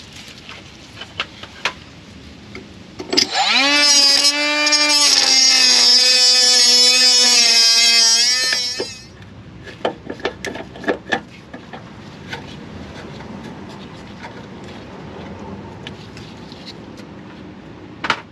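A small power tool spins up about three seconds in and runs for about six seconds, its whine dipping slightly in pitch as it cuts through the rusted steel brake line, then stops. Scattered clicks and knocks of tool handling come before and after.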